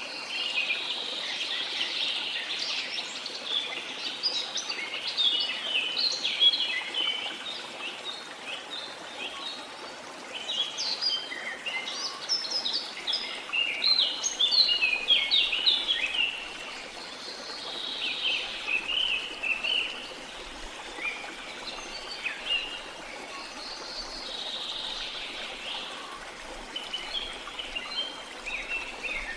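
Many birds calling in quick, overlapping chirps and short phrases, over the steady rush of flowing water.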